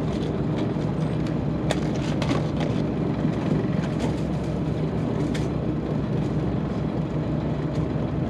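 Steady low mechanical drone of a fishing boat's machinery, with a few sharp clicks scattered through it.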